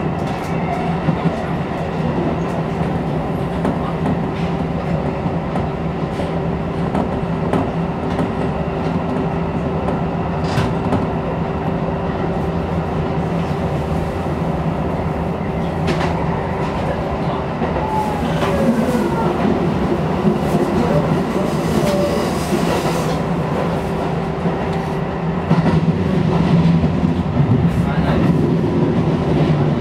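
Shin-Keisei electric commuter train running along the line, heard from inside the front car: a steady rumble of wheels on rails under a constant motor hum, with a few sharp clicks as the wheels pass rail joints. It grows a little louder near the end.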